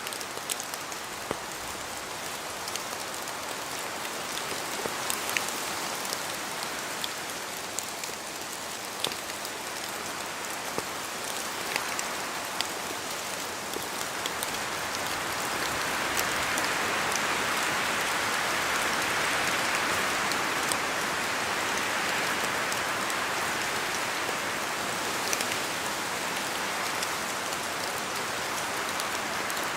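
Steady rain in a spruce forest, with scattered sharp drips of drops falling from the trees and a gust of wind through the branches swelling the hiss about halfway through.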